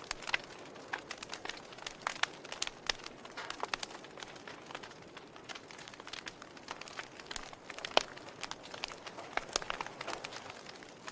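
Fire crackling: irregular sharp pops and snaps over a soft hiss, with one louder pop about eight seconds in.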